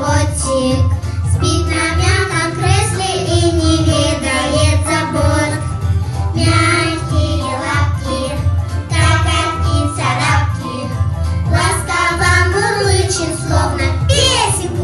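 Young girls singing a children's pop song together over a backing track with a steady bass beat.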